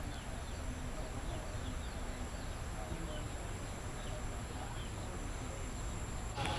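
Rural outdoor ambience: scattered short bird chirps over a steady high insect drone.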